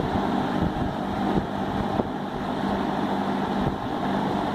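1970s Champion box fan with a Westinghouse motor running on its low speed: a steady rush of air over a faint, even motor hum.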